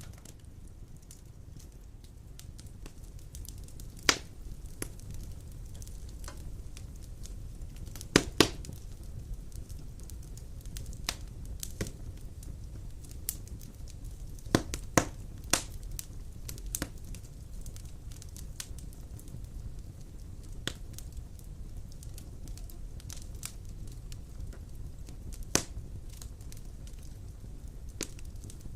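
Large wood logs burning in a fireplace: a steady low rumble of fire with scattered sharp crackles and pops. The loudest is a quick double pop about eight seconds in, and there is a cluster of pops around fifteen seconds.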